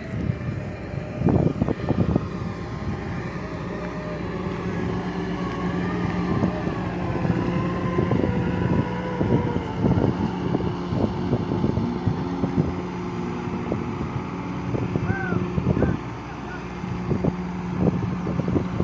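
Doosan DX140 excavator working: its diesel engine runs at a steady pitch, with repeated knocks and clatters from the digging throughout.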